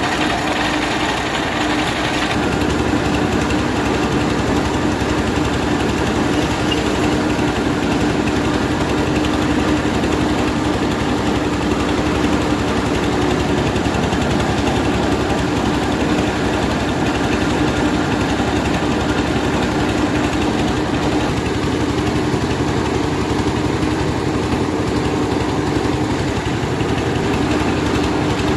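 Rice milling machine running steadily as it mills half-dry paddy: a continuous mechanical din with a steady droning tone. Its sound shifts slightly about two seconds in.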